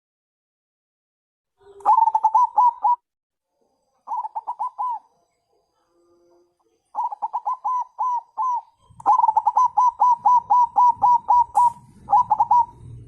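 Zebra dove (perkutut bangkok) cooing in quick runs of short, clipped notes, about ten a second, each run lasting about a second with pauses between; the first run starts about two seconds in and a longer run comes past the middle. It is the calling type of song used to lure or set off other perkutut.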